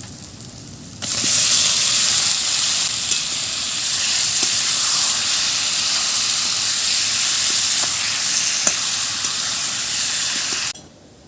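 Raw chicken pieces going into hot oil and fried spice paste: a loud, steady sizzle that jumps up about a second in and cuts off suddenly near the end.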